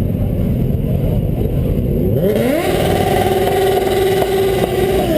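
Motorcycle engine running with a low rumble, then revved up a little over two seconds in and held at a steady high rev for nearly three seconds before the revs drop near the end.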